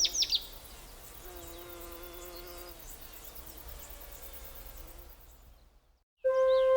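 Faint insect buzzing with a couple of held humming tones, which fades away to silence. Sharp bird chirps sound at the very start, and a loud steady musical drone comes in just before the end.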